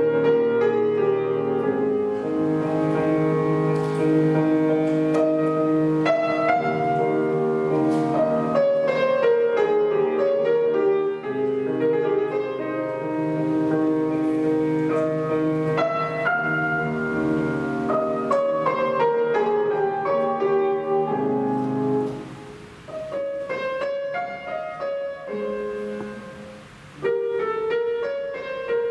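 Solo acoustic piano playing classical repertoire. For about twenty seconds the playing is legato, with sustained chords over held bass notes. Then it turns quieter and more detached, with the loudness rising and falling.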